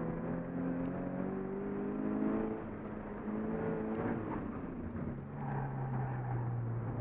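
Scion FR-S's 2.0-litre flat-four engine under hard acceleration, heard from inside the cabin: its pitch climbs three times, dropping back between climbs, then falls away about four seconds in and holds steady at a lower pitch.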